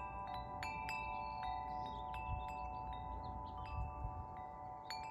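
Wind chimes ringing: several long notes hold steady while fresh higher notes are struck at irregular moments and fade.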